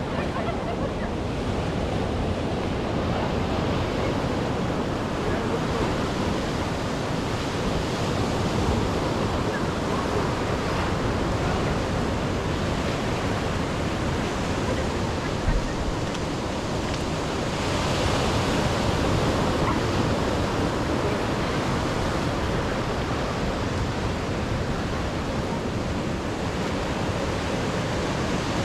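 Ocean surf washing over shoreline rocks, a steady rush of noise with wind buffeting the microphone; the surf swells a little louder about two-thirds of the way through.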